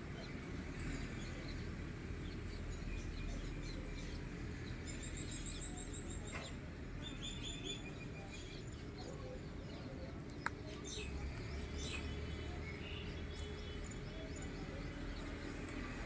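Small birds calling in short runs of rapid high chirps over a steady low outdoor background noise, with one sharp click about ten seconds in.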